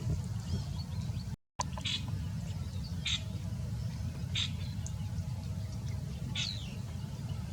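Bird calls: four short, high chirps spaced a second or two apart, some sliding down in pitch, over a steady low rumble. The sound cuts out for a moment about a second and a half in.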